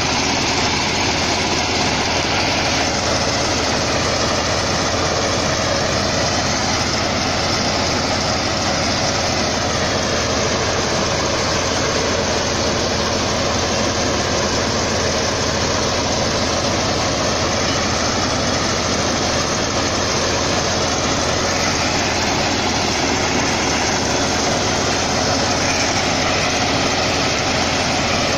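Mini combine harvester running steadily with a constant engine drone and machinery noise, no change in speed.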